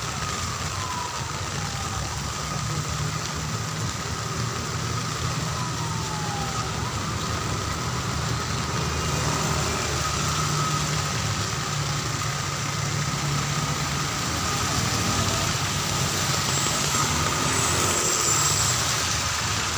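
Street traffic in heavy rain: vehicle engines running with a low rumble under a steady hiss of rain. Two short falling tones sound in the first few seconds.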